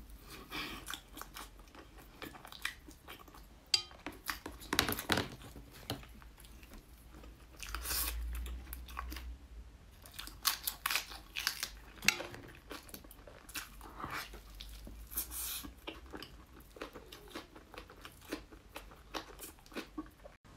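Close-up eating sounds: wet chewing and smacking on soft braised meat, in irregular bites, with crisp crunching as a raw green vegetable is bitten partway through.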